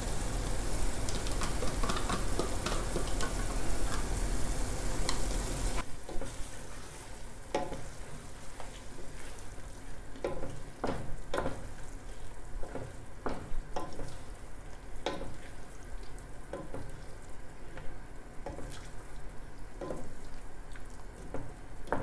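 Meat and yogurt sizzling as they fry together in a pot. About six seconds in the sizzle drops off suddenly, and after that a wooden spoon stirs, scraping and knocking against the pot at irregular intervals over a softer sizzle.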